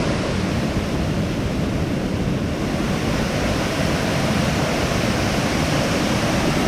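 Waterfall rushing: a steady, loud hiss of falling water close by.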